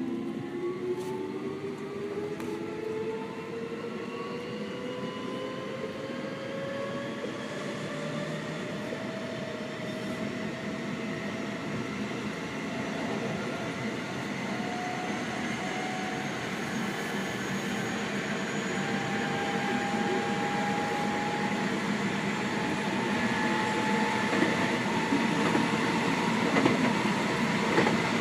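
Seibu 6000 series train with Hitachi GTO-VVVF inverter control accelerating, heard from inside the car. The inverter and traction motors whine in several tones that rise steadily in pitch over rail and running noise, and the sound grows louder as the train gains speed.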